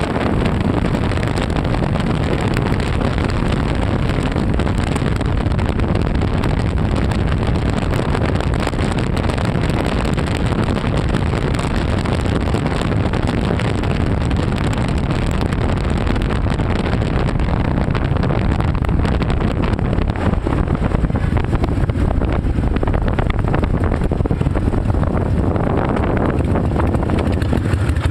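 Harley-Davidson Night Train's V-twin engine running while the motorcycle is ridden, with heavy wind noise on the microphone.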